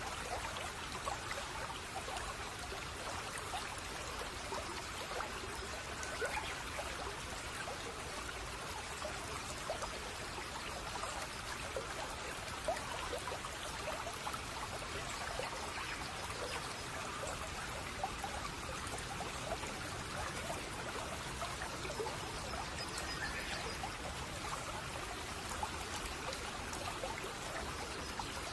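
Shallow brook babbling and trickling steadily over stones, a dense patter of small splashes.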